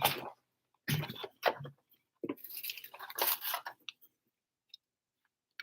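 Trading-card packaging being handled and torn open: three short bursts of crinkling and tearing in the first four seconds.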